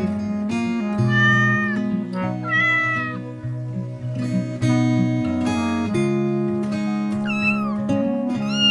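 A cat meowing about four times, each call bending and falling in pitch, over steady background music.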